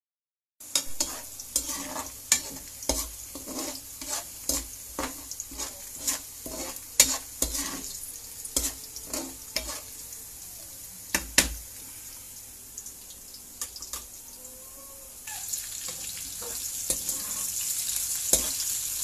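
Garlic and onion sizzling in hot oil in a nonstick wok, with a spatula stirring and repeatedly tapping and scraping the pan. The sizzle grows louder about fifteen seconds in.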